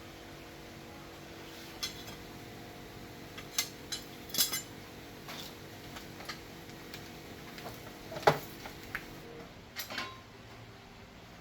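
Metal objects clinking and clanking as they are picked up and handled: scattered sharp knocks with short ringing, the loudest about eight seconds in.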